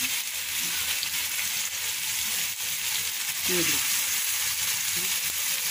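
Chicken shami kabab patties shallow-frying in hot oil in a pan, with a steady sizzle.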